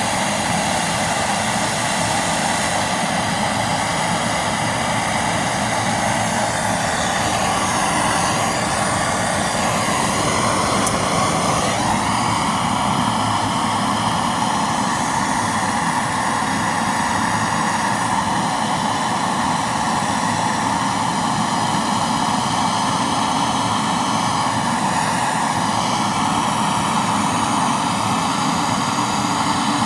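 Blowtorch flame running with a steady, even roar, heating a bearing's inner race so it expands enough to drop onto the pinion shaft. Its tone shifts slightly about twelve seconds in.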